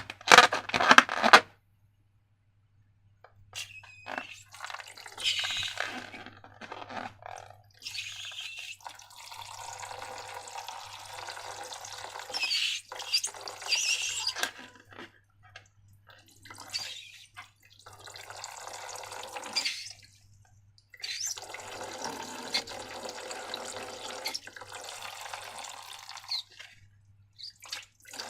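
Wet, squelching liquid sounds of slime being handled and poured, in stretches of several seconds with short pauses between them. A brief loud rapid clatter comes right at the start.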